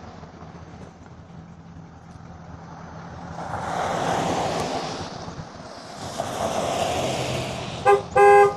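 Wind and road noise while riding among traffic, swelling and fading twice, then a horn honks twice near the end: a short beep and then a longer one.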